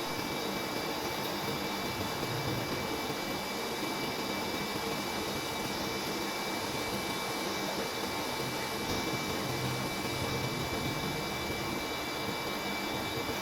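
Steady machine-like hum and hiss, with a faint high tone held throughout.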